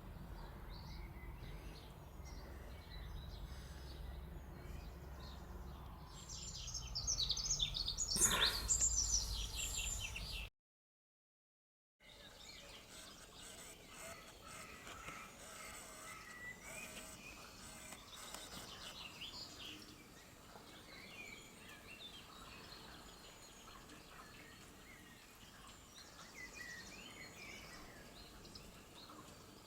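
Garden songbirds singing outdoors over a low background rumble, with one loud burst of fast, trilling song and a single sharp click partway through. After a short gap of silence, quieter scattered bird calls continue.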